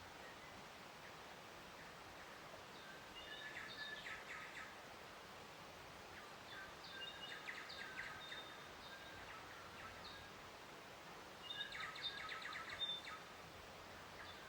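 Songbirds chirping and singing in three short bouts about four seconds apart, over a faint steady outdoor hiss.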